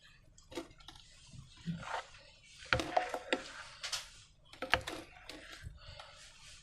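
Sticky slime being squeezed and pulled by hand: irregular wet clicks and short squelches, the sharpest about three and five seconds in.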